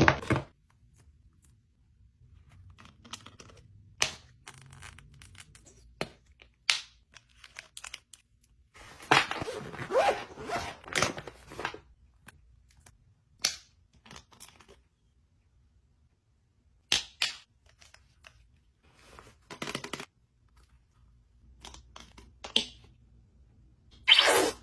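Hands handling things in a small room: scattered sharp clicks and taps, a few seconds of rustling and tearing about nine seconds in, and a louder rustle near the end.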